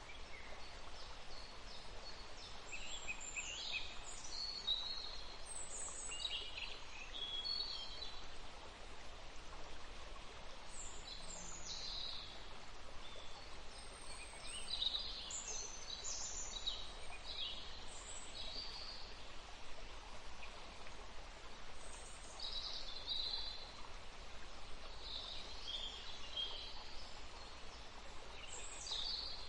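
River water running with a steady rush, with small birds calling over it in many short, high chirps.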